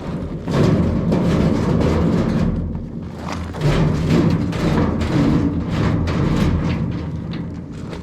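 An old furnace's sheet-metal cabinet dragged over crawl-space dirt and rocks: uneven scraping with thuds, rising and falling in surges.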